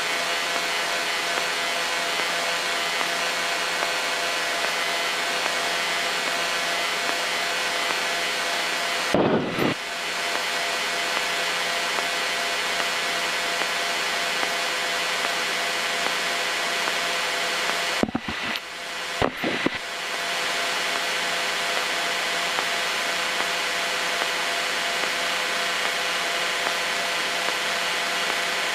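Cessna 152's four-cylinder Lycoming O-235 engine idling steadily, a constant drone with a fixed pitch. Brief clicks break it about nine seconds in and again a few times around eighteen to nineteen seconds.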